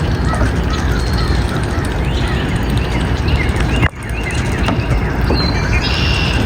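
Birds calling with short chirps over a loud, steady low rumble, broken by a sudden brief drop about four seconds in.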